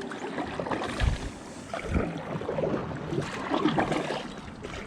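Kayak on the water: water sloshing and splashing against the hull, with a couple of low knocks about one and two seconds in.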